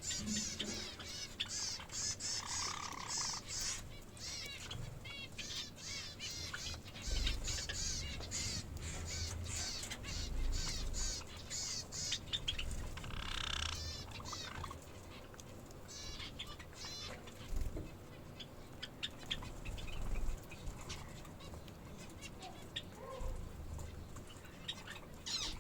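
A group of pet birds chirping rapidly and almost without pause, with one longer, harsher call about halfway through. Occasional low thumps come in between.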